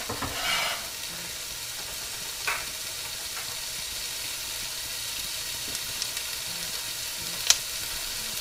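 Diced onion and celery sizzling in hot olive oil in a Dutch oven, a steady frying hiss. A few short clicks and scrapes sound over it, the sharpest about three-quarters of the way through.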